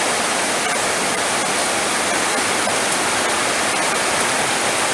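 Heavy rain falling: a steady, dense hiss with faint sharp ticks of drops scattered through it.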